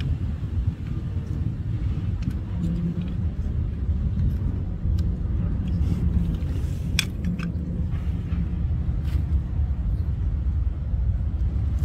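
Car engines running with a steady low rumble, with a few faint clicks.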